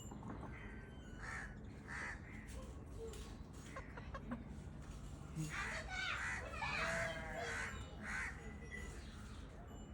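Parrot squawking in short, harsh calls, a couple early on, then a louder run of calls from about five and a half to eight seconds in.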